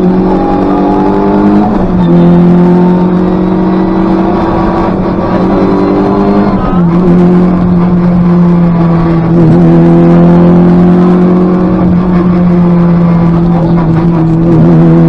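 Škoda Favorit rally car's four-cylinder engine heard from inside the cabin, pulling at full throttle: the revs climb, drop with an upshift about two seconds in and again about seven seconds in, then hold high and steady.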